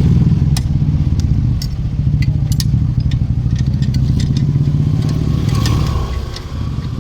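Motorcycle engine running with a steady low rumble, easing off about six seconds in, with light metallic clinks of tools over it.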